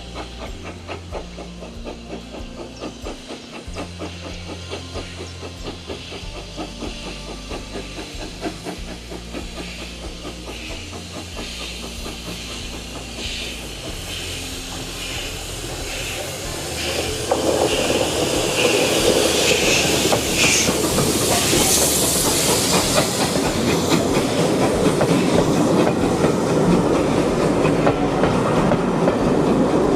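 Steam train hauled by GWR Saint-class 4-6-0 No. 2999 'Lady of Legend' approaching and passing through the halt. Its wheels click rhythmically over the rail joints and grow louder. About halfway through the sound jumps to a loud rush of locomotive and coaches going by, with steam hissing.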